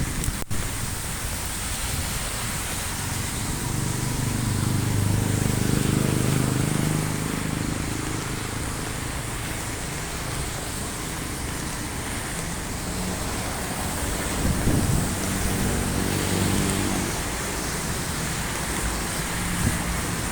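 Heavy rain falling steadily while road traffic passes, with two vehicles' engines swelling up and fading away, one near the start and one past the middle.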